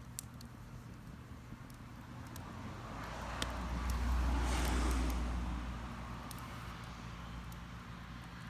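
A vehicle passing by, its rumble and road hiss building to a peak about halfway through and then fading. Scattered sharp pops of a wood fire crackling go on throughout.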